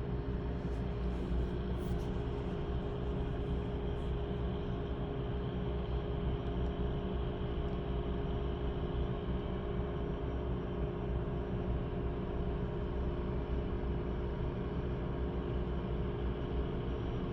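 Steady low rumble with a constant droning hum from nearby drilling-rig machinery running without pause. There are a few faint ticks in the first two seconds.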